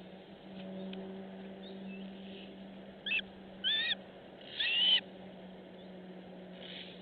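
A bird calling three times, short high calls that bend in pitch, over a steady low hum.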